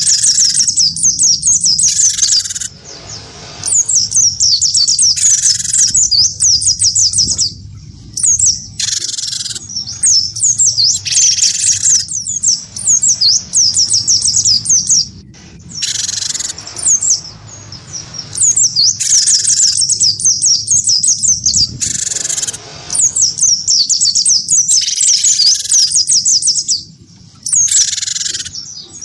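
A cinereous tit and a white-eye singing against each other in a song duel. A continuous stream of rapid, high twittering is broken every few seconds by short, harsher calls.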